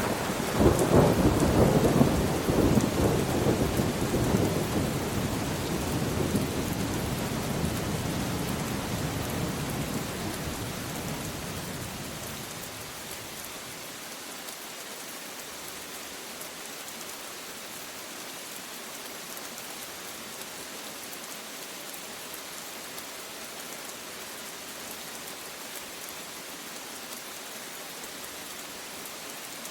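A rumbling roll of thunder over steady rain. The thunder is loudest about a second or two in and dies away over the next ten seconds, leaving the even hiss of rainfall.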